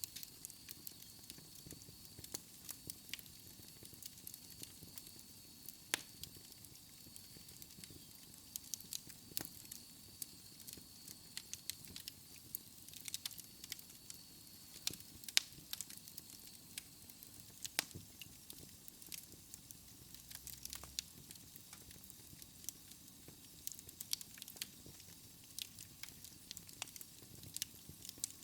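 Fire crackling in a fireplace: irregular pops and snaps over a faint hiss.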